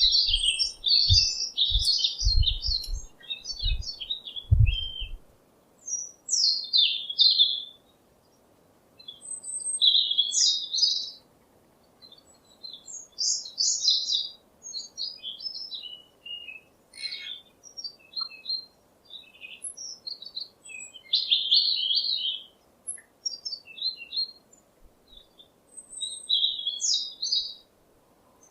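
Small songbirds chirping and twittering in short, quick phrases with brief pauses between them. A few low bumps sound during the first five seconds.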